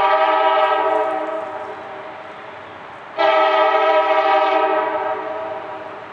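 CSX freight locomotive's multi-chime air horn sounding two long blasts: the first already sounding and dying away about a second in, the second starting about three seconds in and fading out near the end.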